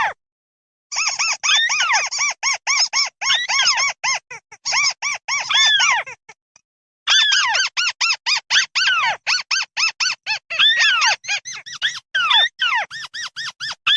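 A mắt xéo bird giving its flock-gathering call: rapid runs of short, arching chirps, several a second. The runs break off briefly about a second in and again around the middle.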